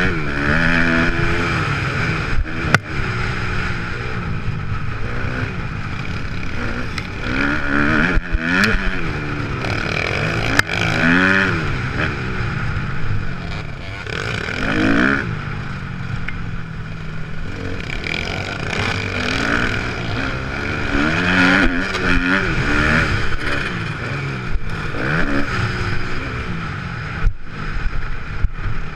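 Kawasaki KX250F four-stroke single-cylinder motocross engine being ridden hard. It revs up and drops back again and again, the pitch climbing and falling every couple of seconds, with a few sharp knocks along the way.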